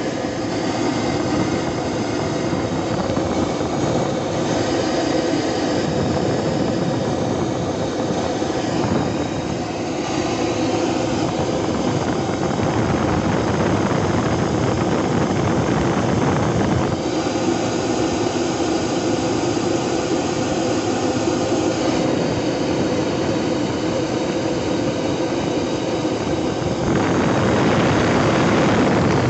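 Turbocharged Detroit Diesel 12V-71, a two-stroke V12 diesel, running steadily, its sound shifting a little about halfway through and growing slightly louder near the end.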